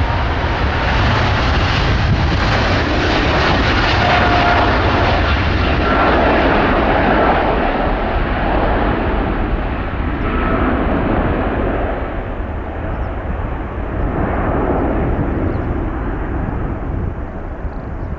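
Boeing 777-200's GE90 turbofans at takeoff thrust: a loud, steady jet roar that loses its high end and fades in the second half as the aircraft climbs away.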